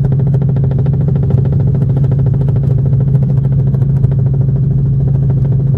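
Helicopter rotor and turbine noise heard from inside the cabin: a steady, loud, low drone with a fast, even pulse.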